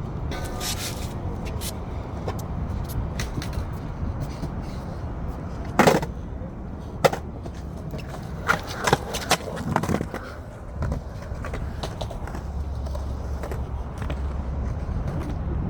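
Skateboard wheels rolling on concrete with a low steady rumble. Several sharp clacks of the board come about halfway through, the loudest two about a second apart, then a quick cluster of them.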